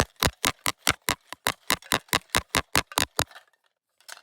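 A rapid, even run of about sixteen sharp clicks, about five a second, that stops suddenly a little over three seconds in.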